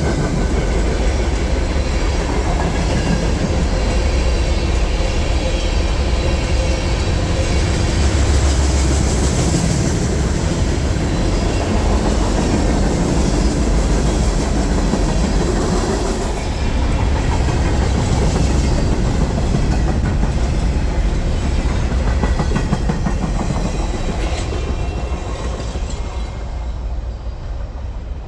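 Freight train rolling past, with steady wheel-on-rail rumble and the clatter of cars going by, easing off near the end.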